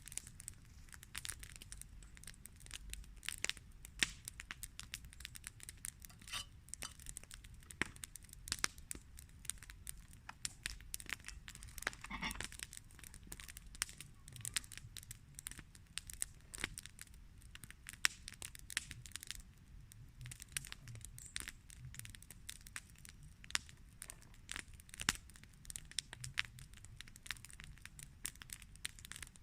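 Wood campfire crackling, with irregular sharp pops and snaps, several a second, over a low steady rumble of the burning.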